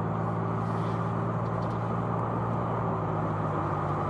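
Car driving at a steady speed, heard from inside the cabin: a steady low engine hum under even tyre and road noise.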